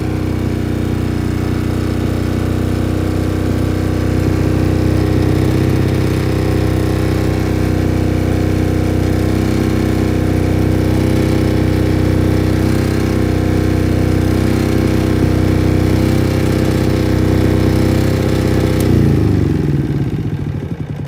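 Engine-driven welding generator running at a steady speed, then shut off near the end, its pitch falling as the engine winds down to a stop.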